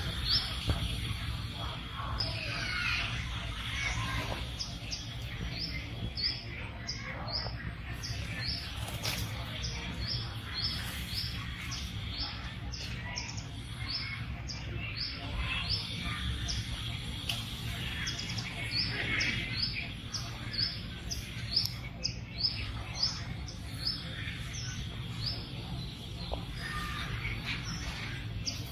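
Bird chirping: short, high chirps repeated over and over, a little under two a second, over a steady low background rumble.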